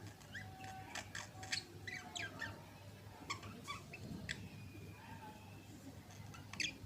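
Budgerigars making soft chirps and squeaky chatter: short, sharp calls with quick pitch sweeps, in small clusters, with one brighter call near the end.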